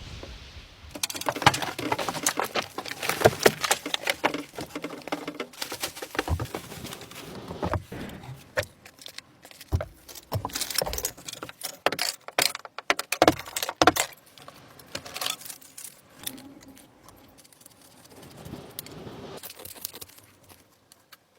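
Dense, irregular clinking and rattling of small hard objects being handled, with runs of quick clicks and knocks that thin out in the last few seconds.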